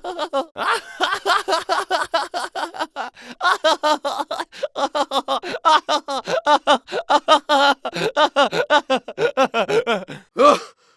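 A person laughing in quick, pitched ha-ha bursts, several per second, with short breaks between takes.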